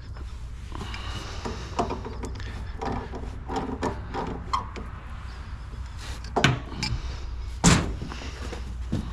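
Clicks, clatter and knocks of hose fittings and tools being handled while a pressure washer pump's water and high-pressure lines are disconnected. Two louder knocks come about six and a half and eight seconds in, over a steady low hum.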